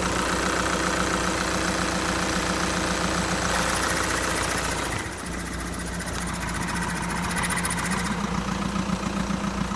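VW Golf 6 engine idling with an odd noise that the owner suspects is a defective dual-mass flywheel. About halfway through the sound becomes duller, and near the end a pulsing low note grows stronger.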